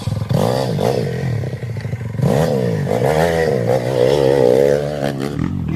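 Enduro dirt bike engine revving, its pitch rising and falling repeatedly as the throttle is worked.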